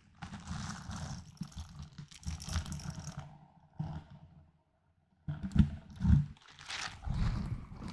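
Close-miked ASMR trigger sounds of small objects being handled, crackling and scraping, with a short pause a little past the middle followed by two louder thumps.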